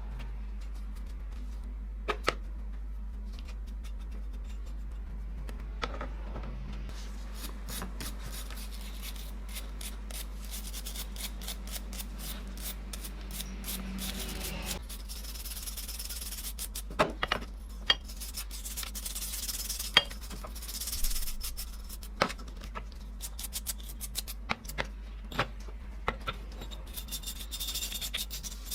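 Abrasive rubbing on a metal tool part by hand: quiet for the first several seconds, then steady scratchy scraping strokes from about a quarter of the way in, with a few sharp clicks and knocks in the second half. A low steady hum runs underneath.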